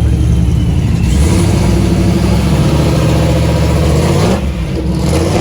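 A car engine revving loudly as a car pulls away, its pitch rising over a couple of seconds before dropping off about four seconds in; a short loud burst of engine noise comes near the end.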